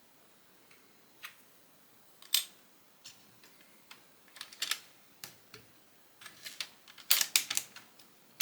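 Small plastic Lego bricks clicking and being snapped together by hand, in scattered sharp clicks with a quick run of louder clicks near the end.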